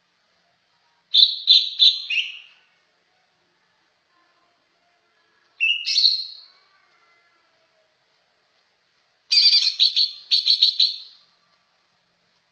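A trucak ijo songbird singing three short phrases of quick, rapidly repeated high notes: one about a second in, a shorter one near the middle, and a longer one near the end, with pauses between them.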